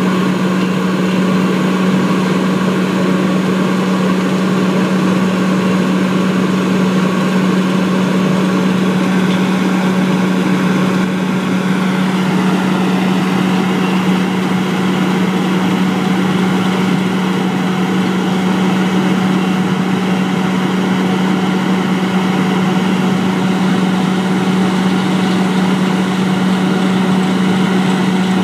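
Engine of road-works machinery running steadily, with a slight change in its tone about twelve seconds in.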